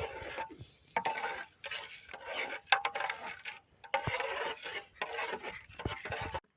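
A metal spoon scraping and clinking against a cooking pan in repeated short bursts, as food is stirred.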